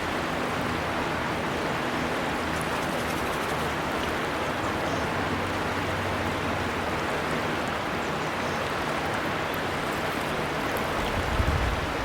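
A river flowing: a steady, even rush of running water, with a brief low rumble near the end.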